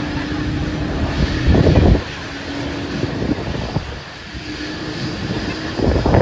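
Jet aircraft engines running with a steady hum, heard over a noisy rumble, with strong wind gusts buffeting the microphone at about a second and a half in and again near the end.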